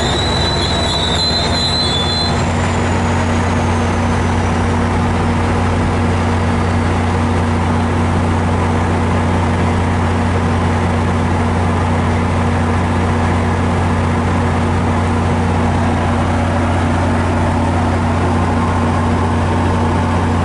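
Diesel passenger locomotive running with a steady low drone as the train moves slowly past. A high brake or wheel squeal sounds at the start and cuts off about two seconds in.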